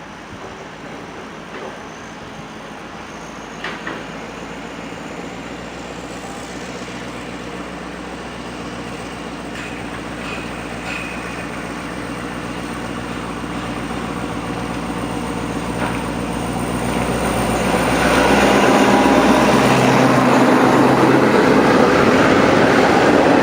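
An Alsthom AHK diesel-electric locomotive hauling a passenger train approaches. Its engine grows steadily louder until it is close, about three quarters of the way in.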